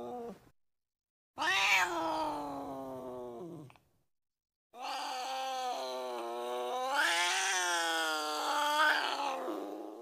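Two drawn-out cartoon animal cries from a sound-effects library: a shorter one about a second and a half in that jumps up in pitch and then slowly sinks, then a longer one from about five seconds in that wavers up and down.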